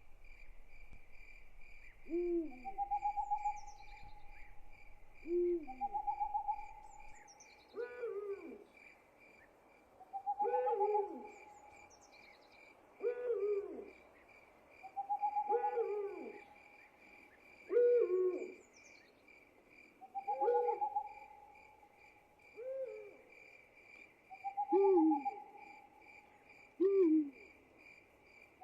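Night ambience of insects chirping steadily in a fast pulse, with a hooting call that repeats about every two and a half seconds, each hoot paired with a longer held note.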